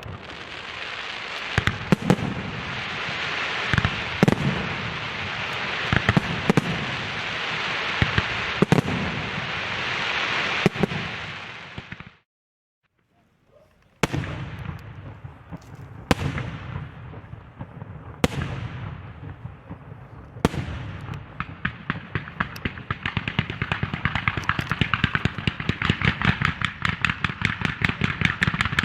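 Aerial fireworks display. Dense continuous crackling is punctuated by a loud shell burst about every two seconds, then comes a break of near silence of about two seconds. After it, single heavy shell bursts fall about two seconds apart, then a rapid volley of bangs, several a second, runs through the end.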